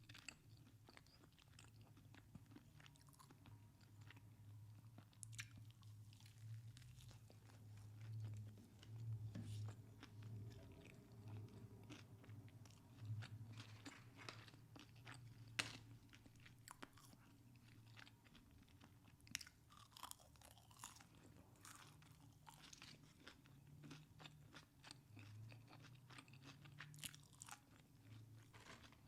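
Close-miked chewing and crunching of fried fast food: many short, sharp crunches and wet mouth clicks, over a faint steady low hum.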